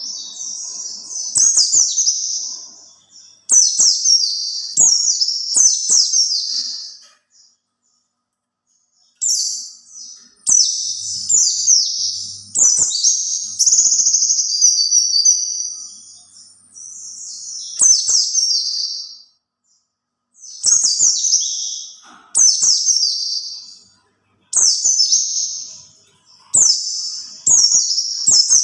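White-eye (pleci) singing: rapid, high-pitched twittering phrases a few seconds long, separated by short pauses.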